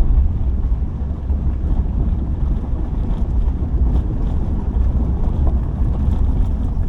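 Subaru car driving along a gravel road: a steady low rumble of tyres and engine, with faint scattered ticks from the gravel.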